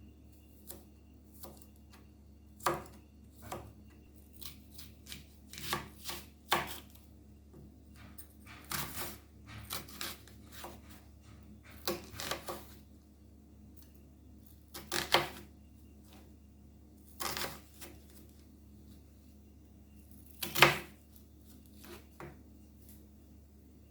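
Knife chopping garlic on a cutting board: irregular, unevenly spaced knocks, one much louder strike near the end.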